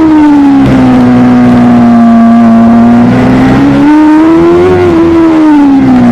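Superbike engine running hard under load. The revs drop in the first second, hold steady, climb briefly about four seconds in, then fall away again near the end.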